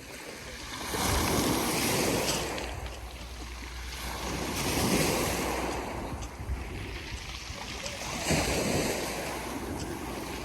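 Sea waves breaking and washing up a pebble beach in about three surges, each rising and falling away over a few seconds.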